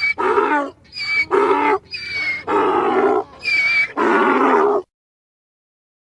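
Donkey braying: about four hee-haws in a row, each a short high squeal on the in-breath followed by a longer, lower rasping bray on the out-breath, then it stops.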